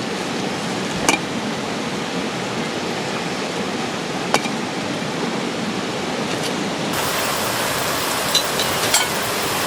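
Steady rushing of a mountain valley stream, with a few sharp clicks over it.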